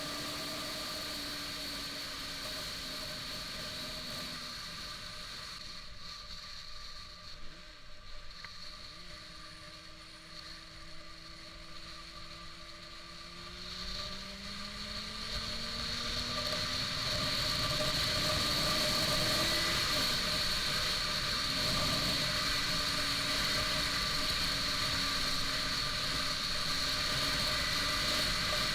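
Honda CBR600RR inline-four engine running under way: it eases off and goes quieter about a quarter of the way in, then its pitch climbs steadily as it accelerates through the middle, and it holds louder and steady for the rest.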